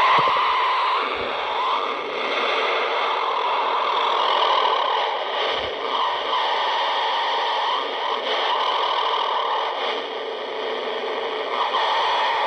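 Radio receiver putting out a loud hiss of static, with a wavering, warbling tone that comes and goes and fainter steady whines above it: a strange interference noise.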